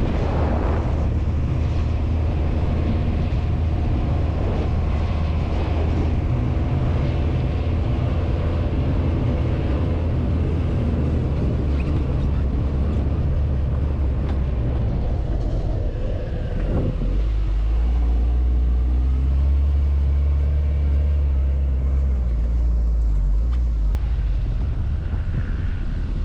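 Quad bike (ATV) engine running steadily while riding, its note shifting to a lower, steadier tone about two-thirds of the way through.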